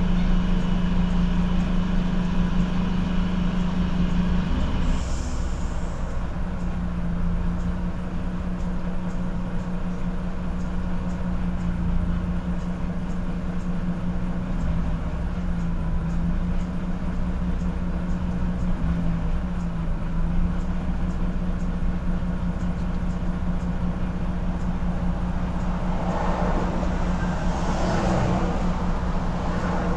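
Truck engine running steadily with road rumble, heard inside the cab, its hum holding an even pitch. A short high hiss comes about five seconds in, and a louder rushing noise swells and fades near the end.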